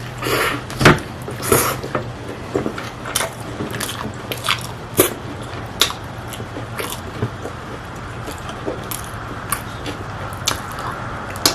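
Close-miked mukbang eating sounds: crisp crunching bites and chewing, about one crunch a second, the loudest about a second in, over a steady low hum.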